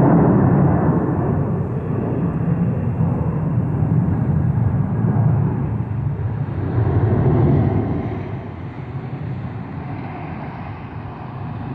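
Boeing 747-400 freighter's four jet engines at takeoff power: a loud, steady low rumble with a rushing hiss above it. It fades after about eight seconds as the jet moves away.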